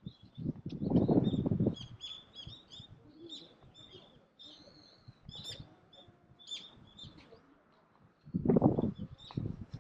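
Small birds chirping and twittering in short, rapid, high notes throughout. Two louder, low, rustling noises come about a second in and again near the end.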